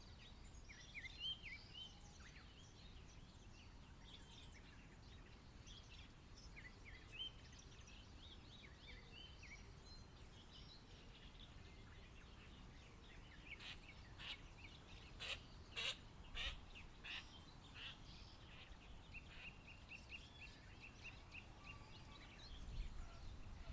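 Several small birds singing and chirping at a pond, with many short high notes throughout. Somewhat past the middle comes a run of about half a dozen louder, harsh calls, and later a rapid even trill of short notes.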